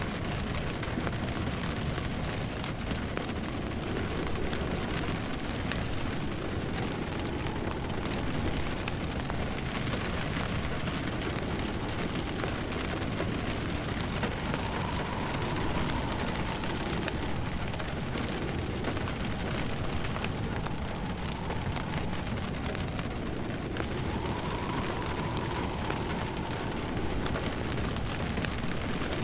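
Steady rain pattering mixed with a crackling wood fire, with wind howling in slow rising and falling gusts.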